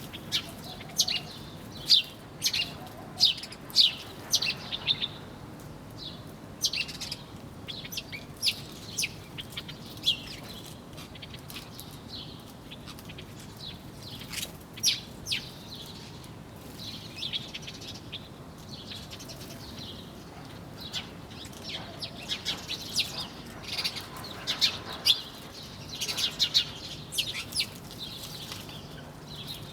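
Small birds chirping: many short, sharp chirps come in quick clusters of several a second, with quieter stretches in between.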